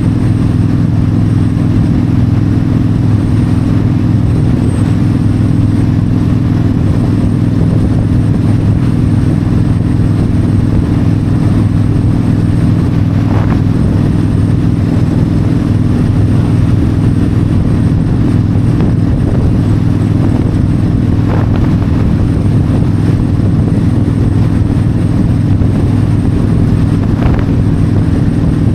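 Yamaha V-Star 1300's V-twin engine running at a steady highway cruise, its pitch holding constant, with wind noise over the microphone.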